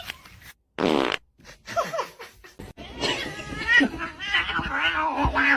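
A short fart sound, a buzzy blast of about half a second, about a second in, followed from about three seconds on by a person laughing.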